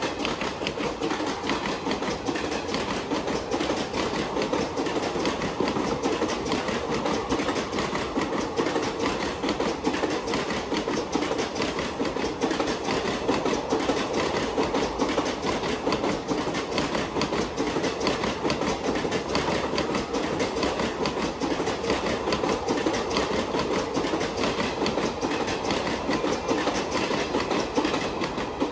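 ICF passenger coaches of an Indian Railways express running through a station without stopping: a steady rumble with a fast, rhythmic clickety-clack of the wheels over the rail joints.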